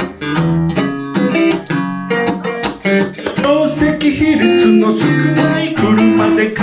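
Electric guitar, a Van Zandt Telecaster played through a Roland JC-120 amp, playing an unaccompanied passage of picked single notes and chords.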